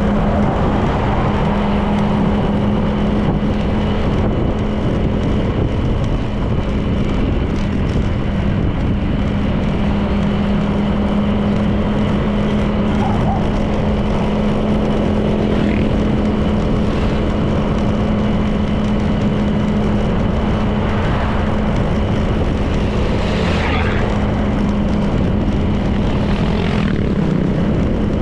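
A Honda PCX 160 scooter's single-cylinder engine running steadily at cruising speed, with wind and road noise. A brief sweep in pitch, like a passing vehicle, comes about two-thirds of the way in.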